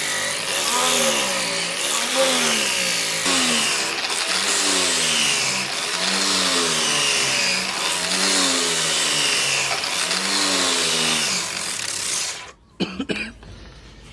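A motor-driven machine running loud, its pitch dipping and recovering about once a second as if it is repeatedly loaded and released. It cuts off suddenly near the end, followed by a few sharp knocks.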